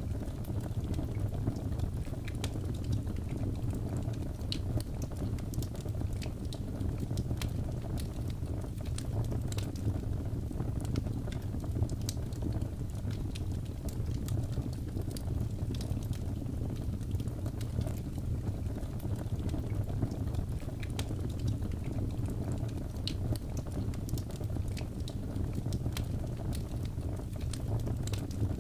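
Wood fire burning, with a steady low rush and frequent irregular crackles and pops.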